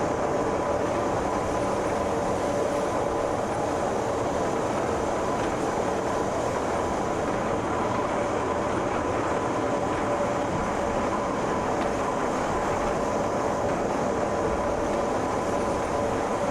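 Train running steadily on its rails: an even rumble with a steady, unchanging whine over it.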